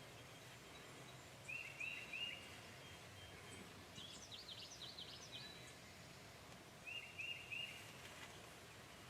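Birds calling: two sets of three short chirps about five seconds apart, with a quick run of higher notes between them, over a faint steady hiss.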